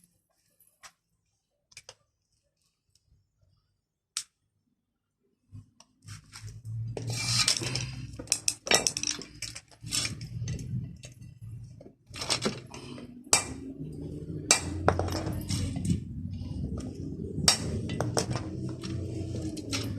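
Near silence with a few faint clicks, then from about six seconds in repeated sharp metallic clinks and clatter, like hand tools and metal parts being handled, over a steady low hum.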